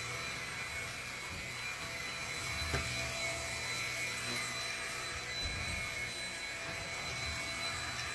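Shark Rocket Zero-M corded stick vacuum running steadily, its motor giving a constant rushing whine with high steady tones, with a single light knock about three seconds in.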